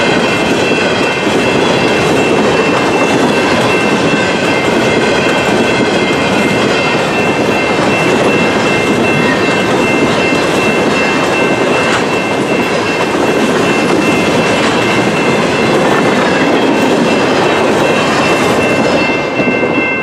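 Empty covered hopper cars of a long freight train rolling past, wheels clattering and rumbling steadily over the rails, with a level-crossing bell ringing throughout. Just before the end the last car goes by and the rolling noise drops away, leaving the bell.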